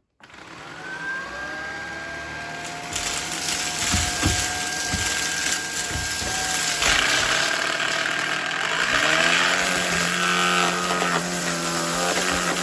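Shark Vertex cordless stick vacuum switching on, its motor whine rising and settling, then sucking up a pile of mixed dry debris (jelly beans, cereal, rice, popcorn kernels) with a few knocks as pieces are drawn in. Its pitch changes about nine seconds in.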